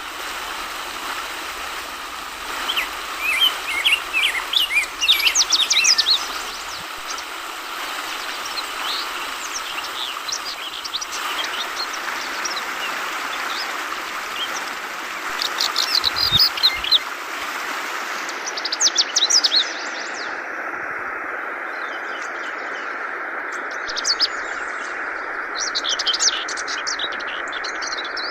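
Yellow-vented bulbul (trucukan) calling in several bursts of quick, high chirps over a steady murmur of trickling, flowing water.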